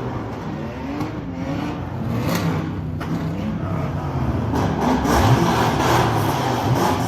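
Car engines revving, their pitch rising and falling repeatedly, with a sharp rev about five seconds in.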